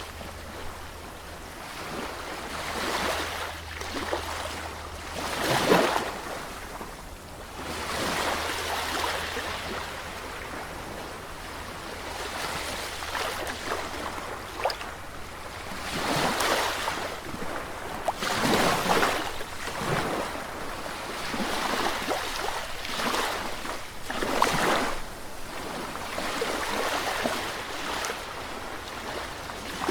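Sea waves breaking on the shore, each wash swelling and falling back every few seconds with a steady hiss of surf between.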